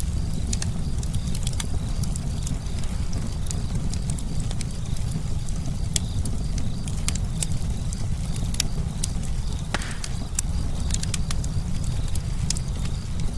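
Campfire crackling: irregular sharp snaps and pops, several a second, over a steady low rumble of burning wood.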